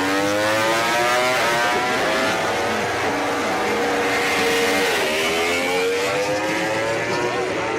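MotoGP racing motorcycle engines revving hard, rising in pitch through the gears. About five seconds in the pitch drops suddenly, then climbs again.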